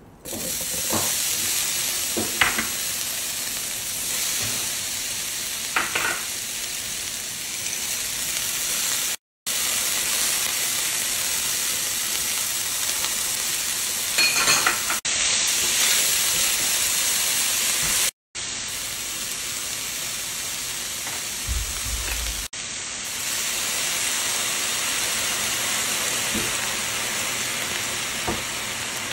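Cherry tomatoes, green bell pepper strips and corn sizzling steadily in hot oil in a skillet, with a few short sharp clicks. The sizzle drops out for a moment twice.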